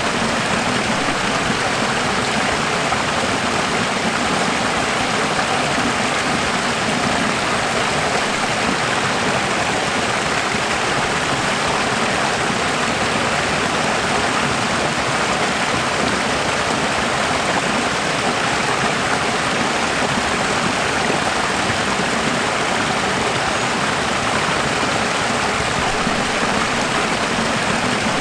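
Running water flowing steadily, an even rushing sound that does not change.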